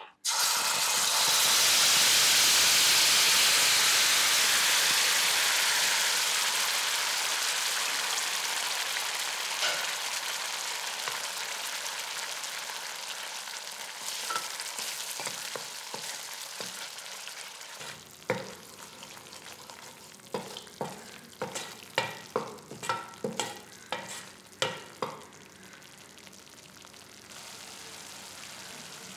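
Green cafreal masala paste dropped into hot oil in a stainless steel pan: a loud sizzle that starts suddenly and slowly dies down. Later a wooden spatula stirs and scrapes the paste against the pan in a run of short strokes that lasts several seconds.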